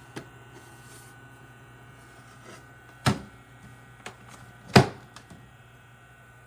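A steady low electrical hum, with two sharp knocks about three and about five seconds in, the second the louder, and a few lighter clicks.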